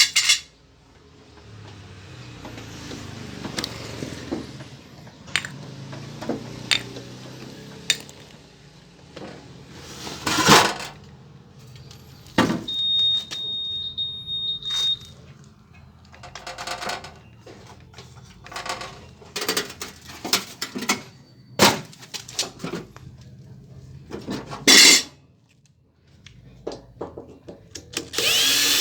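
Irregular metallic clinks, clatters and knocks of tools and small metal parts being handled and set down, with a brief thin steady high tone about thirteen seconds in.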